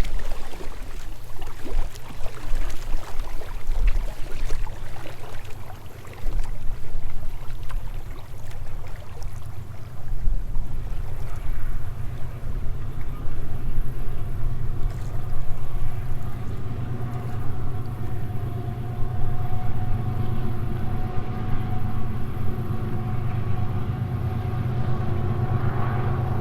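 A motor vehicle's engine rumbling. Over the second half it grows steadier and louder, with a held hum of several steady tones.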